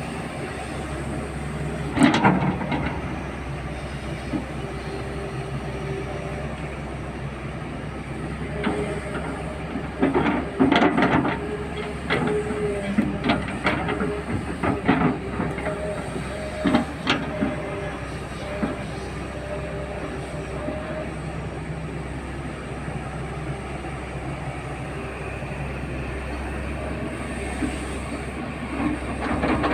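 Heavy loading machine's diesel engine running steadily while loading coal slurry onto a truck, with loud metallic knocks and clanks about two seconds in and a cluster of them between about ten and seventeen seconds.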